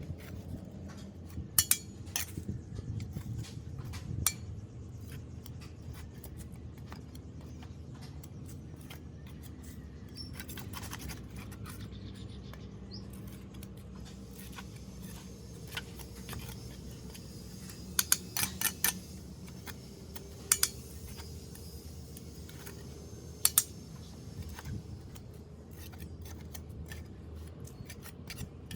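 Metal tool clinking and scraping against a metal drain grate while clearing debris, with sharp clinks in small clusters near the start, about two-thirds through and later on, over a steady low rumble.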